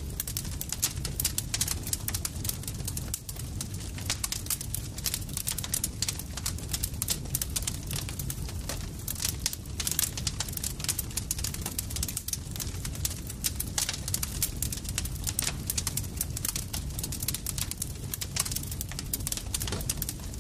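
Campfire burning steadily, wood crackling and popping in quick, irregular snaps over a low, even rumble of the flames.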